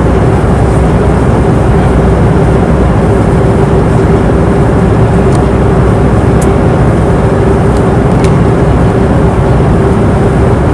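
Airplane cabin noise in flight: a steady, loud rush of engine and airflow noise with a constant hum. A few faint ticks sound in the middle.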